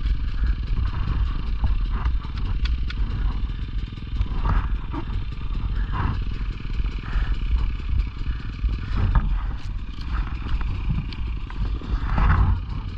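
Pit bike engine running, its sound surging and dropping unevenly, with scattered short clatters.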